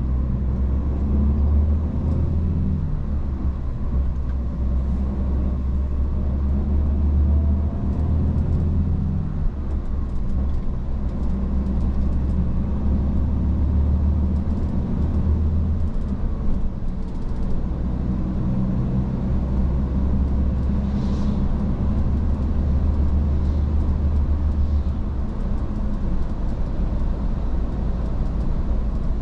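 Iveco S-Way truck's diesel engine and road noise while driving: a steady low drone that shifts in strength and pitch every few seconds.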